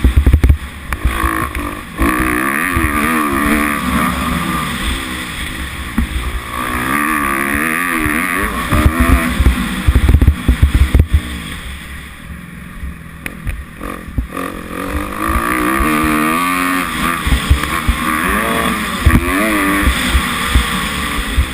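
Kawasaki 250F four-stroke single-cylinder dirt bike engine revving up and down while being ridden, with wind buffeting and thumps on the microphone. The revs drop off briefly about halfway through, then climb again.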